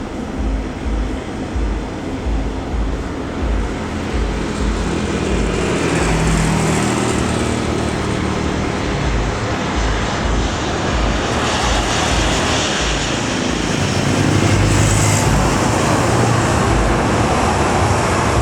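Jet airliner engine noise from a plane passing close to the runway-side spot, a steady wash of sound that builds and is loudest in the second half.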